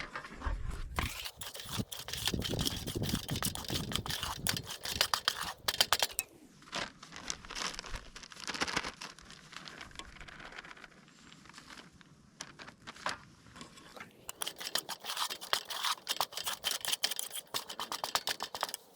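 Flour being stirred into a wet yeast mixture in a pot to form dough: a utensil scraping and scratching against the pot with quick clicks, in two busy spells with a quieter stretch in the middle.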